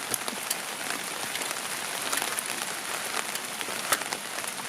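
Steady rain, with many scattered sharper drops striking the tarp overhead.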